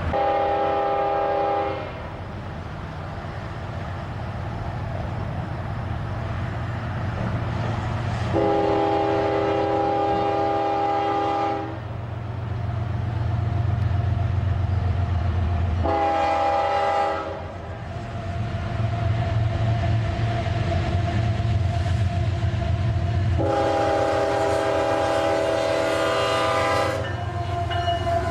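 Diesel locomotive air horn sounding the grade-crossing signal: long, long, short, long, a chord of several notes. Under it runs the steady low rumble of the passing train.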